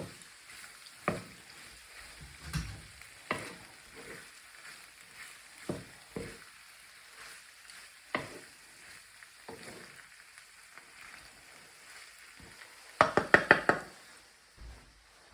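Vegetables frying in a pan with a faint sizzle, stirred with a utensil that knocks and scrapes against the pan every second or so. Near the end comes a quick burst of loud clattering taps against the pan.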